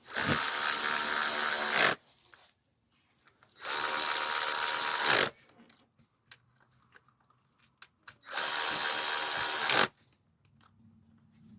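A cordless power driver runs in three steady spells of about a second and a half to two seconds each, driving in fasteners on the engine. The motor's pitch stays level through each run and stops abruptly.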